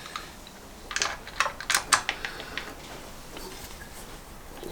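A few short, sharp metallic clicks and taps, bunched between one and two seconds in, with a couple of fainter ones later: small metal parts and hand tools being handled while fitting oil-line screws.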